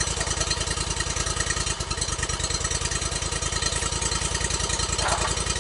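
An engine running steadily at idle with an even, rapid low pulse, used while a log is being positioned for milling. A brief higher sound cuts in near the end.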